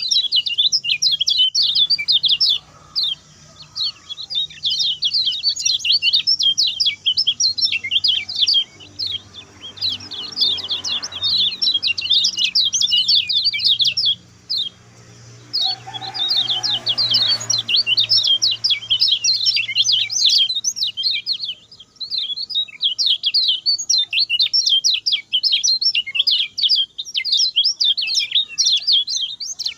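Kecial kuning songbird singing a fast, continuous chattering song of rapid high notes, in long phrases broken by short pauses, as in a recording used to tutor other caged birds.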